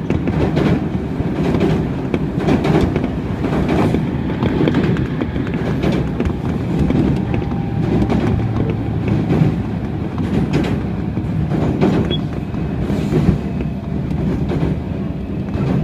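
Running noise of a Tobu 30000 series electric train heard from inside the car: a steady rumble of wheels on rail, with repeated clicks as the wheels pass over rail joints.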